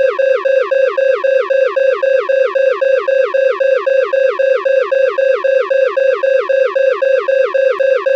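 Electronic alarm tone pulsing rapidly, about four pulses a second, each sliding quickly down in pitch and then holding a steady note. It is loud and unchanging.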